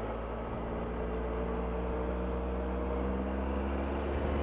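Triumph Tiger 1200's three-cylinder engine running under way, its pitch rising slowly as the bike gains speed, with wind and road noise.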